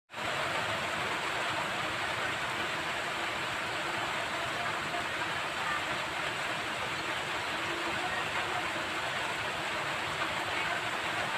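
Steady monsoon rain falling, an even unbroken hiss.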